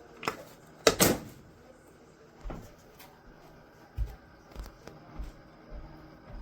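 A series of knocks and clunks of things being handled. The loudest pair comes about a second in, followed by softer knocks every half second or so.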